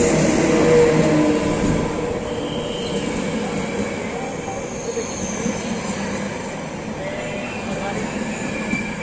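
Hellenic Train 120 020, a Siemens class 120 electric locomotive, passes close by, followed by its passenger coaches rolling past on the rails. The sound is loudest as the locomotive goes by about a second in, then settles into steady rolling noise with thin, high wheel squeals coming and going.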